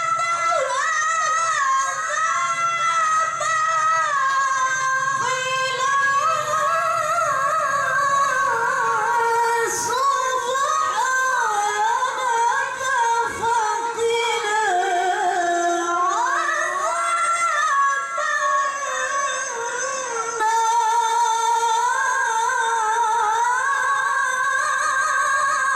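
A woman's high voice in melodic Quran recitation (tilawah), holding long notes with rapid ornamented turns of pitch. It climbs to a higher held note about two-thirds of the way in and falls away at the very end.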